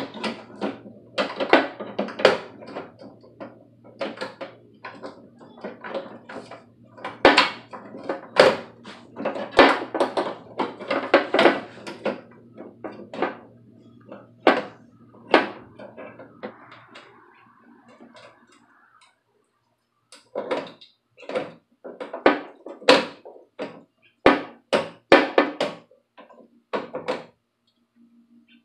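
Irregular metal clunks and knocks as a window regulator is handled and fitted inside a car door, with a low steady hum under the first half and a short pause a little past the middle.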